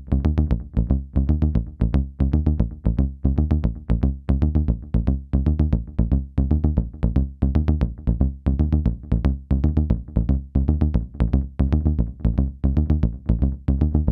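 Behringer Neutron synthesizer playing a fast repeating bass line of short notes through an MXR Carbon Copy analog delay pedal, each group of notes trailed by echoes that step down in level.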